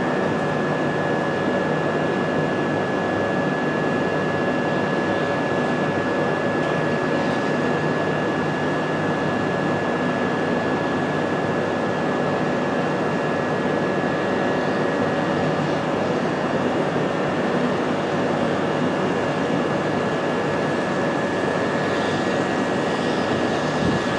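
A train's steady hissing roar with a steady high-pitched tone running through it.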